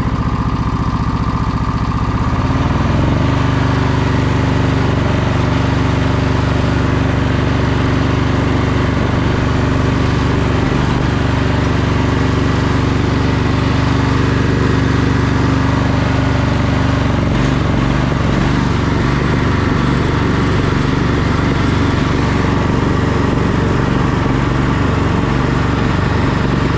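John Deere Sabre lawn tractor engine running off choke, its speed stepping up a couple of seconds in and turning rougher and less even in its last stretch. It doesn't seem to rev up all the way.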